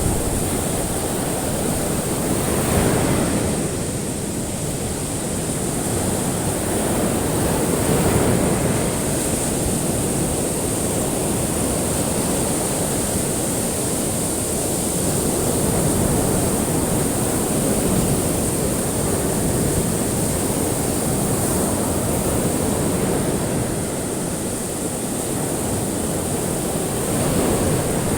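Ocean waves washing onto a shore in a continuous surf, swelling and easing every few seconds.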